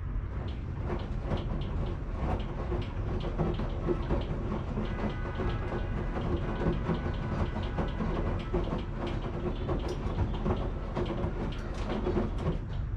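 Washing machine running: a steady low rumble with many irregular clicks and knocks over it.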